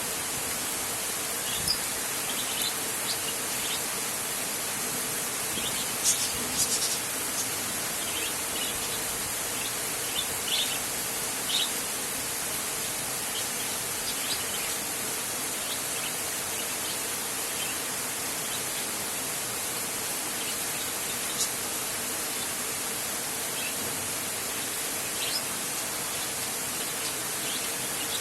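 Heavy rain falling steadily on a tin roof, a dense even hiss, with scattered short high chirps over it.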